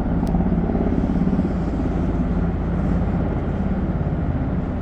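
Helicopter running on the ground before lifting off, its rotor making a steady, rapid low beat over engine rumble.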